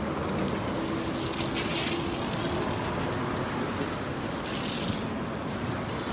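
Busy street ambience: a steady wash of traffic noise with a faint engine hum passing from about one to three seconds in.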